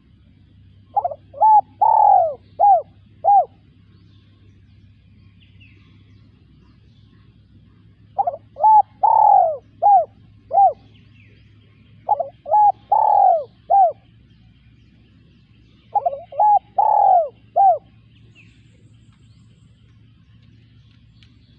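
Spotted dove cooing: four phrases of about five rounded coo notes each, several seconds apart.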